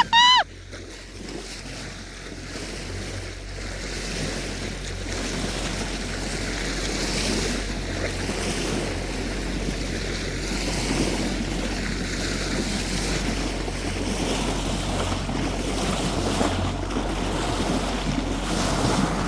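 Wind buffeting the microphone over water and waves washing around a small boat, building over the first several seconds and then steady. A brief pitched, sweeping call cuts off right at the start.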